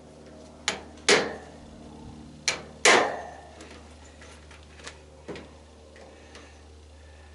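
Hammer blows on a hand impact screwdriver, struck to break loose stuck Phillips screws in sheet metal: twice a light tap followed by a hard, ringing metallic strike, then a few faint knocks.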